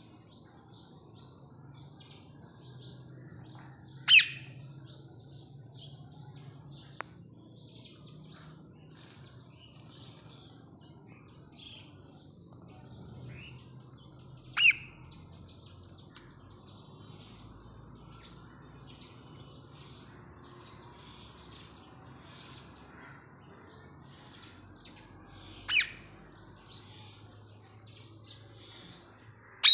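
Green ringneck parakeets calling: three loud, harsh squawks about ten seconds apart, with quick high chirps between them.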